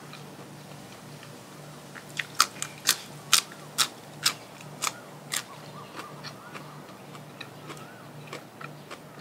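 Close-up crunching of crisp food being bitten and chewed: a run of about ten sharp crunches, roughly two a second, then softer chewing.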